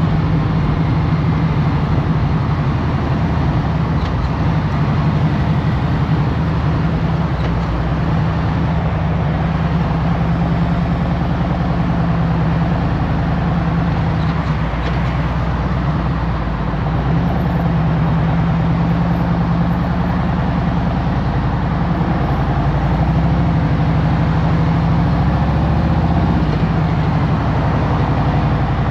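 Harley-Davidson Road Glide Special's Milwaukee-Eight V-twin engine running steadily with a throbbing low exhaust note, with wind and road noise over it.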